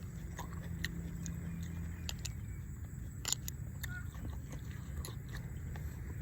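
A person chewing and biting food, with scattered short crisp clicks over a steady low background hum.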